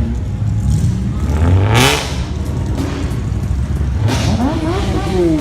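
A car engine revving as it pulls away, pitch climbing to a loud peak about two seconds in, then a second rev that rises and falls near the end.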